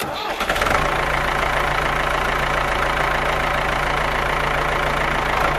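Tractor engine idling steadily, cutting in suddenly out of silence at the start and holding an even, unchanging note.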